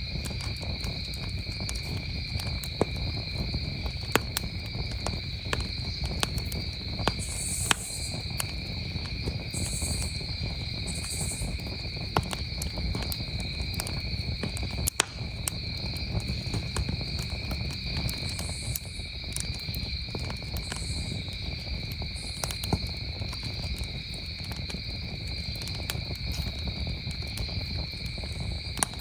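Wood campfire crackling, with scattered sharp pops, over a steady, unbroken trill of crickets.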